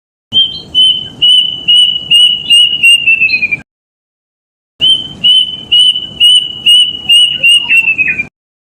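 Plaintive cuckoo (kedasih) singing two phrases of about eight clear whistled notes each, steady in pitch and then quickening and dropping slightly at the end of each phrase, with a pause of about a second between them.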